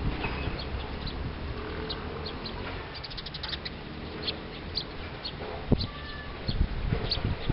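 Small wild birds calling in short, high chirps, with a quick run of about eight notes about three seconds in, over a low rumble. A sharp knock comes near six seconds and a few softer ones near the end.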